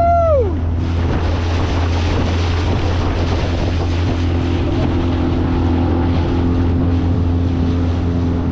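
Honda BF20 four-stroke outboard running steadily under way, pushing an inflatable boat fast over the water, with wind on the microphone and water rushing past. A short shout comes right at the start.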